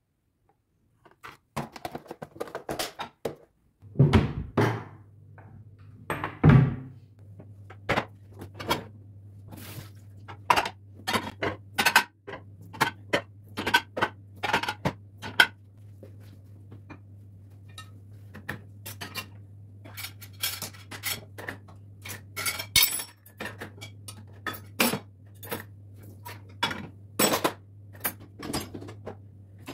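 Dishes and cutlery clinking and knocking against each other as they are handled and set down, in many separate strikes. A steady low hum runs underneath from about four seconds in.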